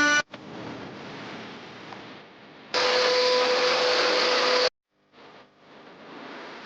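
A machine running with a steady hissing whir and a steady hum in it. It is quiet at first, much louder for about two seconds from roughly three seconds in, then cuts off abruptly and comes back faintly near the end.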